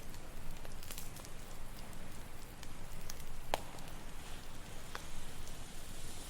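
Campfire crackling, with scattered sharp pops (the loudest about three and a half seconds in) over a steady wash of ocean waves.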